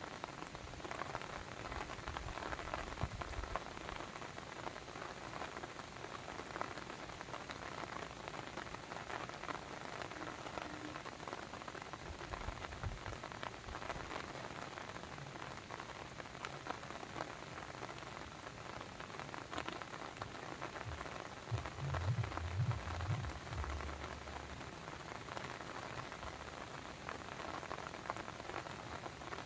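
Steady water sound: a dense hiss of many small drips and splashes, with a brief low rumble about three quarters of the way through.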